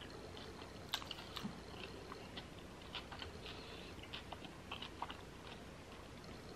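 Close-miked chewing of a mouthful of chicken salad wrap, with many small scattered wet clicks and light crunches.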